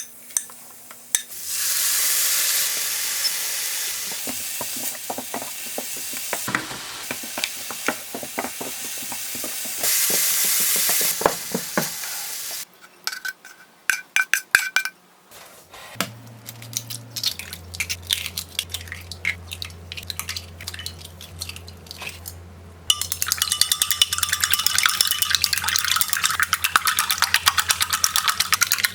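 Kitchen cooking sounds: food sizzling in a pan while a utensil stirs it, with scattered clinks of cookware. A louder, denser crackle starts about two-thirds of the way in, over a steady low hum.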